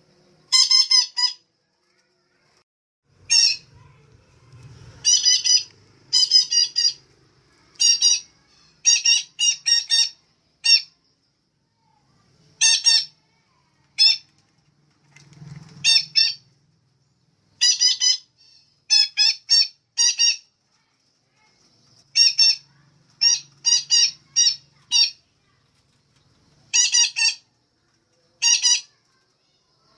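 Female parakeet calling: short, harsh squawks in quick runs of one to four notes, repeated every second or two with brief pauses between.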